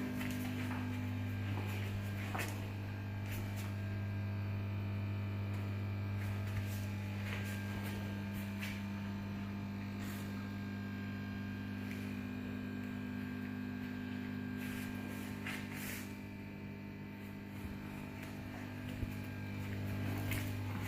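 Steady low electrical-sounding hum with a few scattered light clicks and taps.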